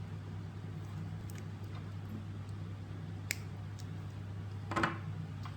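Wire cutters snipping through a small wire: one sharp click a little over three seconds in, over a steady low hum. A louder short handling noise follows near the end.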